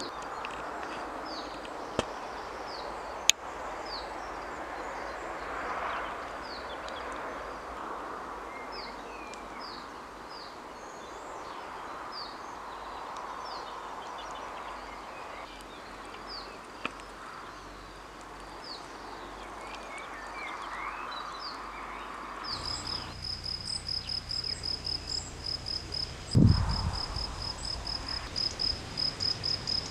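Outdoor natural ambience: a soft wash of background noise with short, falling bird chirps repeated every second or so. About 22 seconds in it cuts to a cricket chirping in a fast, steady pulse, with a low thump of wind on the microphone a few seconds later.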